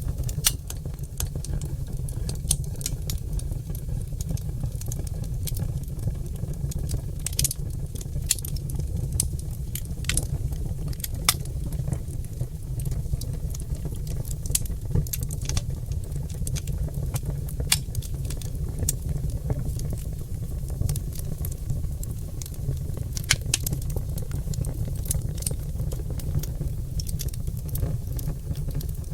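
Oak logs burning in a fireplace, crackling and popping in irregular sharp snaps over a steady low rumble.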